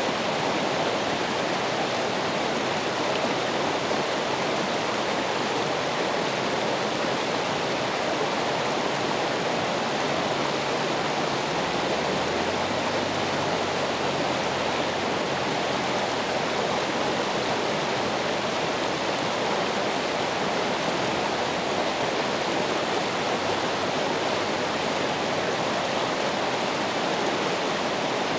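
Running water rushing at a steady, unbroken level, with no change in the flow.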